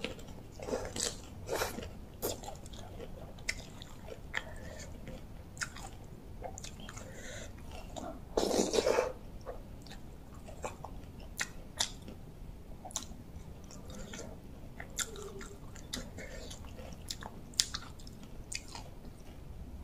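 A person chewing a mouthful of rice-noodle salad close to the microphone, eating by hand, with many short wet mouth clicks and smacks. A little over eight seconds in comes one louder, longer noisy burst.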